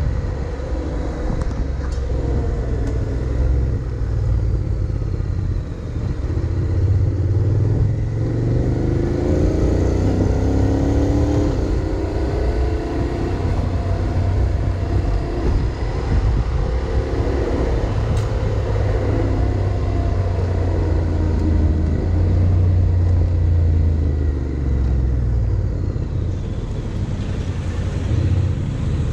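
Honda X-ADV 750's parallel-twin engine running on the move, its revs rising and falling several times, under a heavy, steady low rumble.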